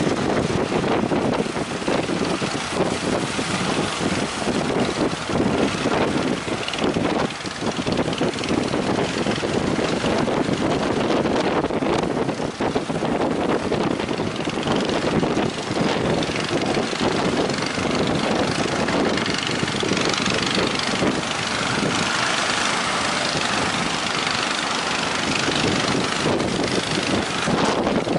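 Boat engine running steadily, with strong wind buffeting the microphone.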